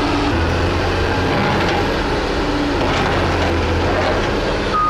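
Excavator's diesel engine running, its low drone swelling twice as the machine climbs onto a trailer.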